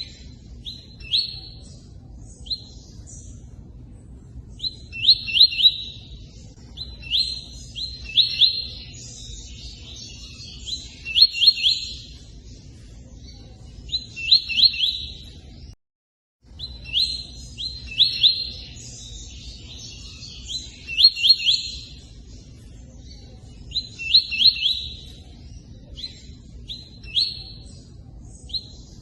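Tui-tui singing its song in short bursts of rapid repeated notes, a phrase every second or two, over a steady sound of running water. Everything cuts out briefly about halfway through.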